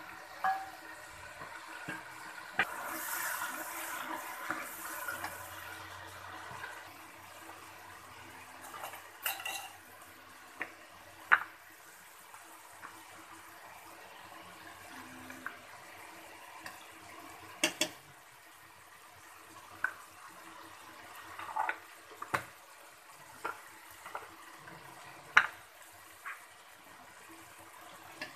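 Onions and tomatoes sizzling as they fry in hot oil in a steel pot, the sizzle loudest in the first few seconds, with a metal ladle clinking against the pot about a dozen times.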